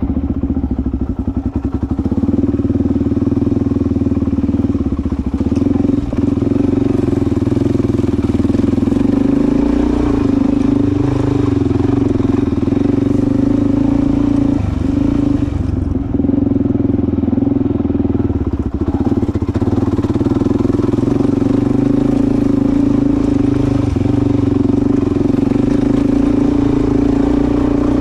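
Suzuki DR-Z400's single-cylinder four-stroke engine running steadily, with brief changes in revs about ten seconds in and again around fifteen seconds in.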